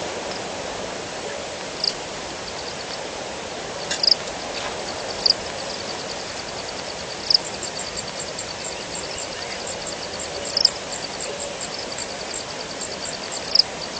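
Steady rain, with a short sharp high call about every two to three seconds and a fast, high, pulsing trill of calls from small animals behind it.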